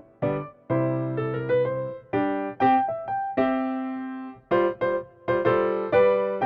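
Background music: a gentle piano tune of struck notes and chords, each note ringing out and fading.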